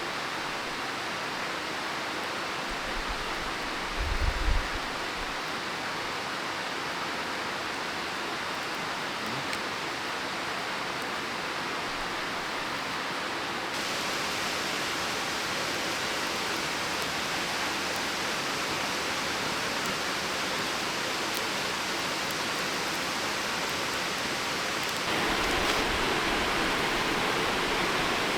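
Waterfall rushing: a steady, even roar of falling water that gets louder in two steps, about halfway through and again near the end. A brief low rumble comes about four seconds in.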